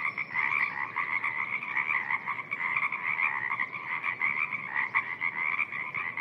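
A dense chorus of many frogs calling at once in a spring wetland, their overlapping croaks making a steady, unbroken wall of sound.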